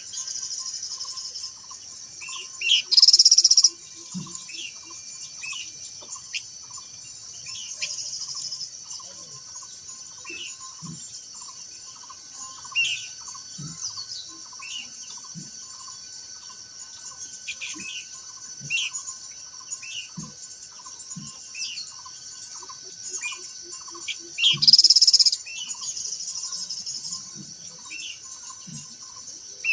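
Minla (khướu lùn) song: short bird calls repeated every second or so, with two louder song bursts about three seconds in and again near twenty-five seconds. Insects buzz steadily high underneath, with a regular pulsing chirp below.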